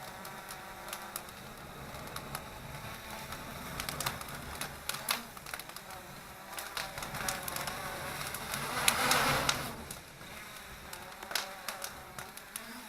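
A wood fire crackling with many irregular sharp pops while it is fanned by a small Hubsan quadcopter, whose propellers add a faint steady buzz. About nine seconds in there is a brief rushing swell of noise.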